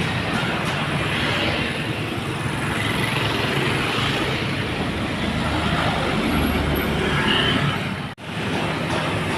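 Heavy loaded dump trucks driving past, engine running under load with road noise. The sound drops out for an instant about 8 seconds in.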